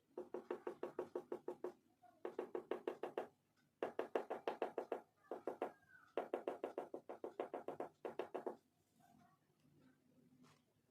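Oil pastel scribbled rapidly back and forth on paper: four bursts of quick scratchy strokes, about eight a second, with short pauses between bursts.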